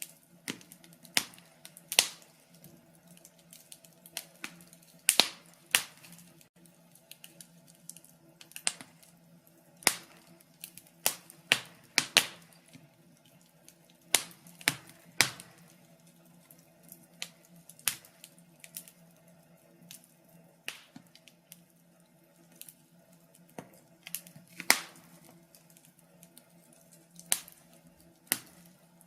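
Wood fire crackling in a fireplace: irregular sharp pops and snaps, some louder than others, over a low steady murmur of the burning.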